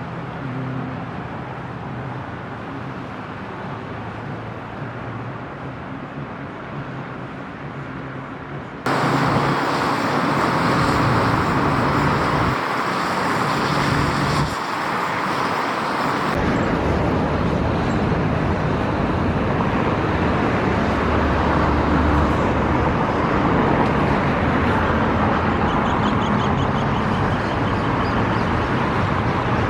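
Boeing 767-400 airliner jet engines running during a landing: a steady noise that jumps louder and changes abruptly about 9 s and again about 16 s in, at cuts between shots.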